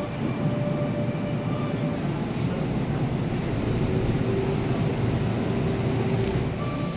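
Steady hum of a Kintetsu train standing at an underground subway platform with its doors open, with faint held tones over the platform noise.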